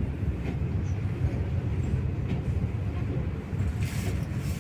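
Inside a MAZ-215 articulated city bus under way: a steady low engine and road rumble with light rattles. A hiss joins near the end.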